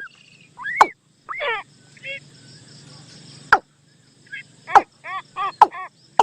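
Bird calls played as a decoy lure: clusters of short arched chirps, with a run of quickly repeated chirps in the second half, broken by sharp clicks.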